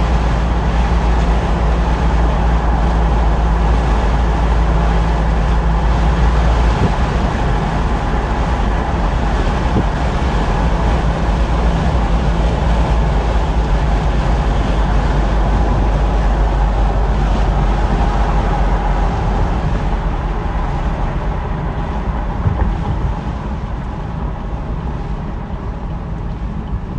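A 2012 Chevrolet Camaro SS's 6.2-litre V8 running while the car is driven, with road and wind noise over a deep, steady rumble. The engine note shifts about a quarter of the way in, and the sound fades slowly near the end.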